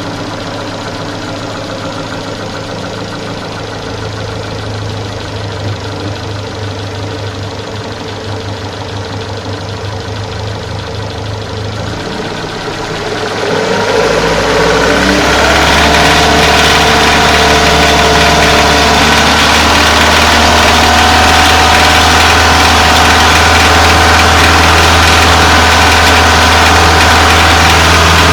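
Car petrol engine idling with a knock from inside the engine. It grows louder between about 12 and 14 seconds in, then runs steadily.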